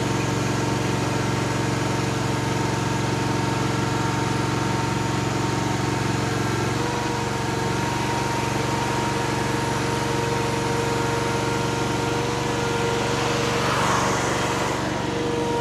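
Derette DRT450 mini skid steer's engine running steadily, its note shifting slightly about seven seconds in.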